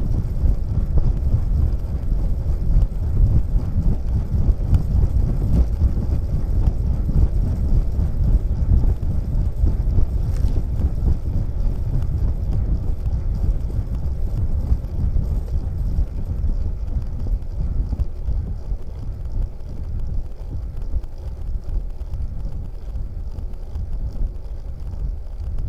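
Wind buffeting the microphone: a low, uneven rumble that eases a little toward the end.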